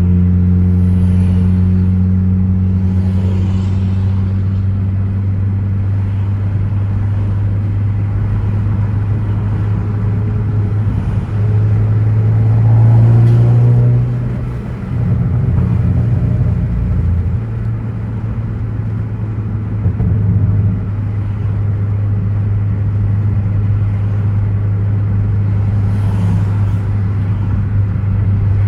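A 2014 Ford Focus ST's turbocharged 2.0-litre four-cylinder droning at a steady cruise, heard from inside the car. About halfway through, the engine note rises and then drops away as the throttle closes. A few seconds of rough crackling on the overrun follow, the pops and crackles from its Stratified tune.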